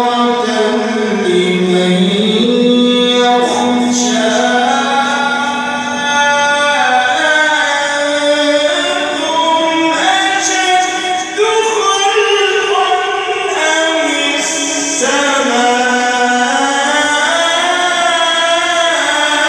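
A man's voice reciting the Quran in slow, melodic chant, holding long ornamented notes that glide up and down in pitch, with a brief breath about eleven seconds in.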